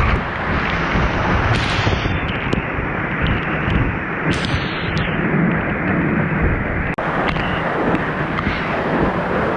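Strong waterfall pouring, a loud steady rush of water with a heavy low rumble. There is a brief break about seven seconds in.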